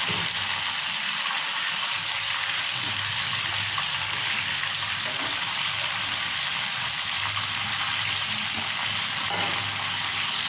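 Beef seekh kebabs frying in a pan of hot oil, a steady sizzle.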